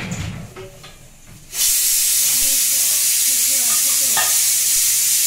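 Food frying in hot oil in a pan: a loud, steady sizzle that starts suddenly about a second and a half in.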